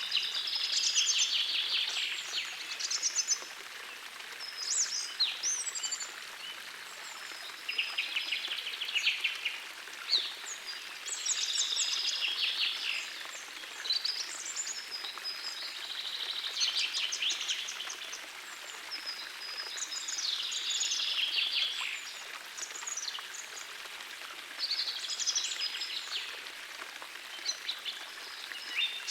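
Songbirds singing, with short trilled and chirping phrases coming every two to three seconds, over the steady rush of a forest stream.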